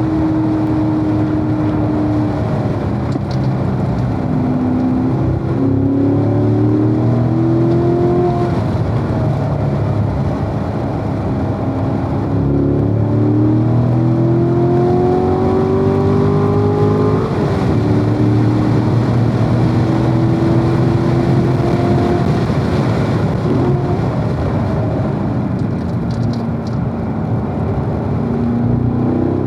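Corvette V8 engine driven hard on a race track. Its pitch climbs under acceleration several times and drops back between climbs, the sharpest drop about seventeen seconds in, over steady road and wind noise.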